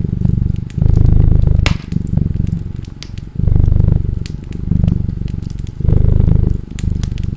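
A domestic cat purring close up, the purr swelling and easing about every two and a half seconds with its breathing. The sharp, irregular crackles and pops of a wood fire run over it.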